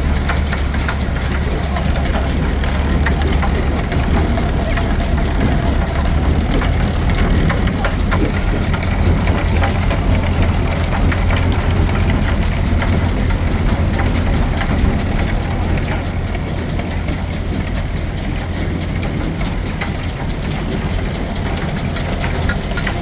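Steam engine running steadily to power a Frick sawmill, a continuous low rumble with a fast, even beat of machinery. It eases slightly about two-thirds of the way in.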